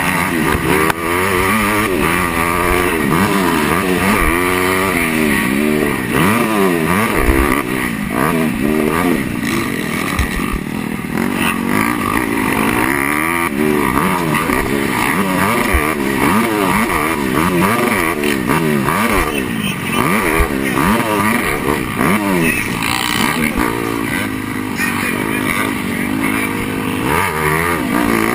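Motocross bike engine heard onboard during a race, its pitch climbing and dropping over and over as the throttle is opened and shut through the track's turns and jumps, over steady wind and riding noise.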